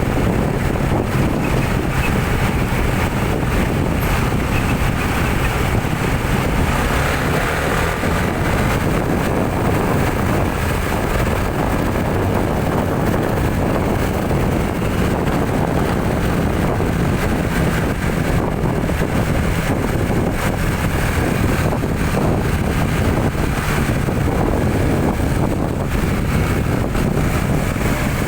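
Steady drone of a motor vehicle driving along a road: engine and road noise running evenly, with some wind.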